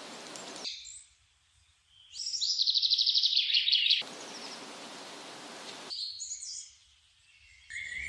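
Songbirds calling and singing, the loudest a rapid high trill from about 2 to 4 seconds in, with shorter calls about a second in and near 6 seconds. Stretches of steady hiss start and stop abruptly between the calls.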